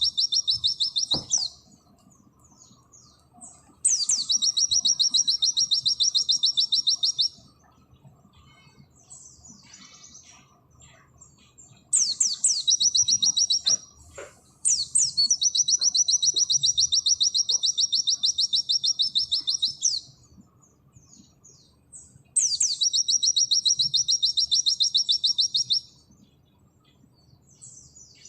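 White-eye (pleci) singing its fast 'nembak' song: long, rapid, high trills of about two to five seconds, each opening with a quick rising sweep, with soft chirps between. One trill ends about a second in, and four more follow.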